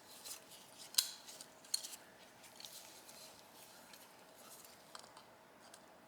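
Faint clicks and light scraping of small hand tools working on a disassembled motorcycle carburetor. A sharp click about a second in and another just under two seconds in are the loudest.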